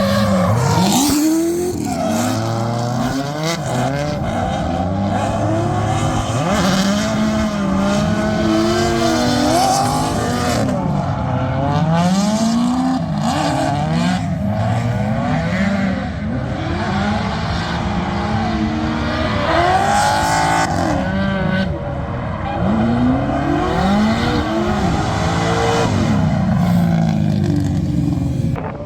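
Drift car's engine revving up and dropping off again and again under hard driving, with tyre squeal.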